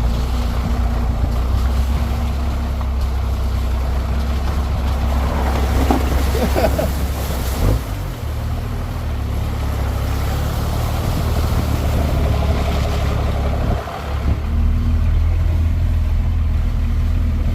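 Square-body pickup truck's engine running at low speed, heard from inside the cab while crawling over rough, bumpy ground: a steady low drone that dips briefly about eight and fourteen seconds in. A short wavering squeak rises over it about six seconds in.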